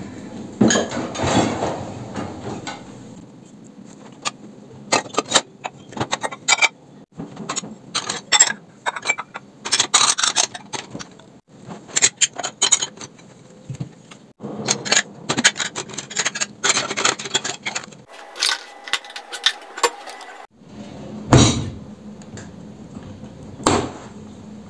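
Clicks, knocks and light clattering of household objects being handled, in several short segments that cut off abruptly, with a brief steady tone partway through.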